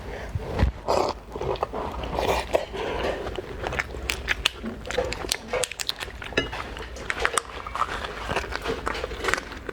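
Close-miked eating sounds of raw rose lobster: irregular wet clicks, smacks and small crunches of biting and chewing.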